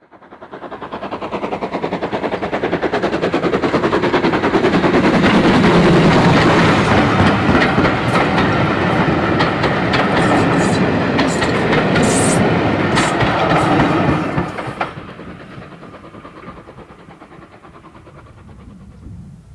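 A passenger train running past, a dense rumble with a fast rippling beat and sharp clicks from the wheels. It builds up over the first few seconds, then drops suddenly about fifteen seconds in to a much fainter rumble.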